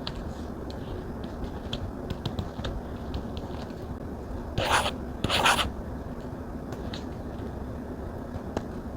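Stylus tapping and drawing on a Samsung Galaxy tablet's screen: light scattered taps, with two short scratchy strokes about halfway through, over a steady low background hum.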